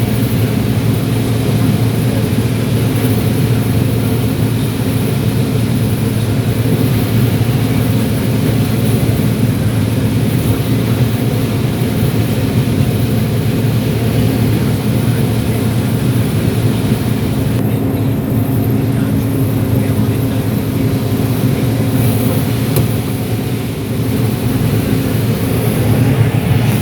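John Deere 9760 STS combine running steadily while harvesting corn: a constant loud drone of engine and threshing machinery with a steady low hum.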